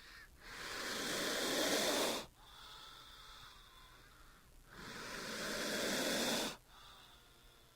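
King cobra hissing: two long hisses of about two seconds each, each building up and then cutting off sharply, with a fainter hiss between them.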